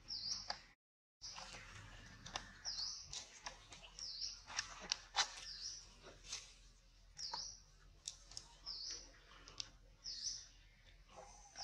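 A small bird chirping over and over, short high dipping chirps about once a second, with scattered faint clicks. The sound drops out completely for a moment about a second in.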